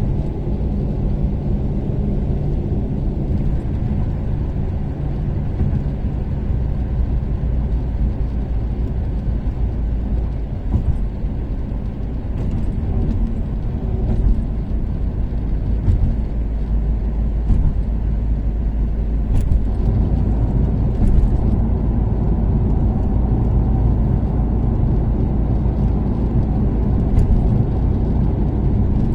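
Toyota Caldina's turbocharged 3S-GTE four-cylinder engine and tyre noise while cruising on an expressway, a steady low drone that grows a little louder after about 20 seconds.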